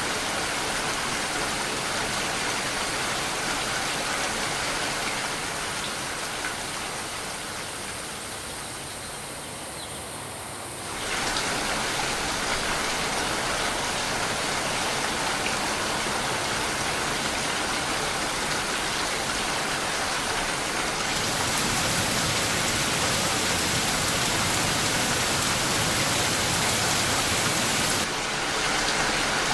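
Steady rain with no distinct drops standing out. It grows softer and duller from about six seconds in, comes back abruptly at about eleven seconds, and turns hissier for several seconds near the end before changing again just before it ends.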